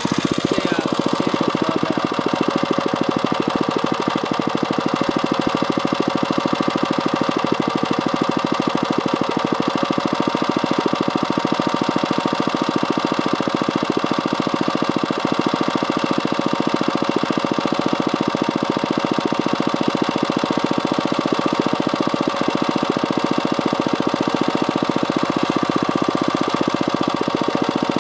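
Small gasoline engine running steadily, a fast even firing beat with no change in speed.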